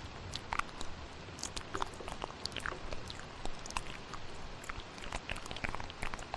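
Layered ASMR mouth sounds: a dense, irregular stream of quick wet clicks and smacks close to the microphone, over a steady thunderstorm-and-rain background.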